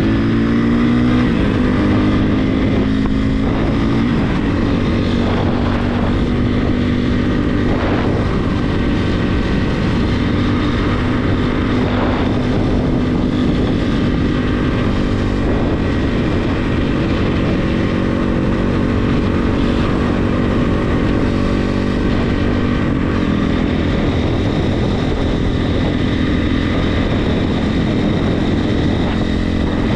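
Regulmoto TE enduro motorcycle engine running under way at a fairly steady cruising speed. Its pitch shifts about a second in, then holds steady.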